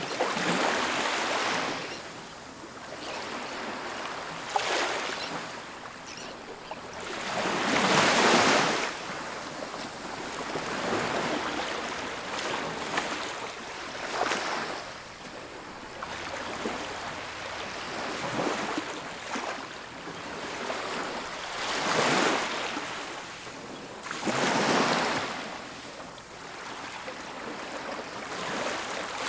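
Ocean waves breaking and washing up on a beach, a surge every few seconds, the loudest about eight seconds in.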